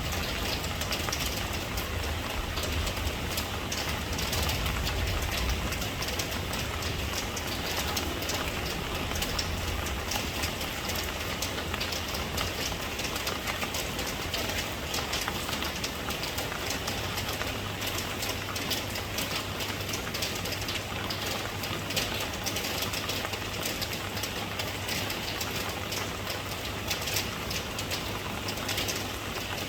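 Steady rain falling, a dense patter of drops, with a low rumble underneath that fades about ten seconds in.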